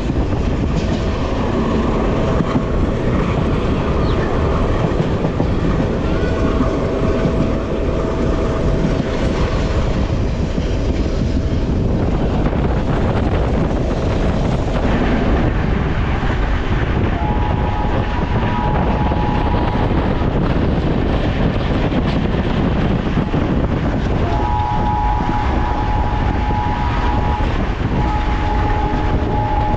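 Diesel-hauled express train running at speed, heard from beside the coaches: steady wheel-on-rail rumble and clatter. A faint steady whine sounds for the first ten seconds or so. In the second half the locomotive's two-tone horn sounds in several short blasts.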